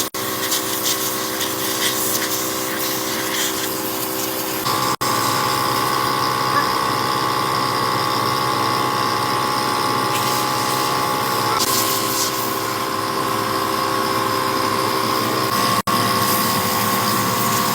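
A motor-driven machine running steadily with a constant hum. It drops out briefly about 5 seconds in and again near the end.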